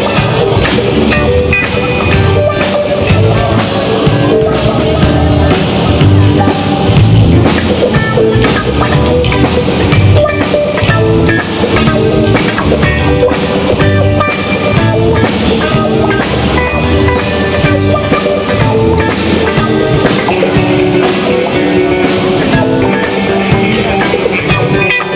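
A band jamming loosely before rehearsal, with drum kit and electric guitar playing rock.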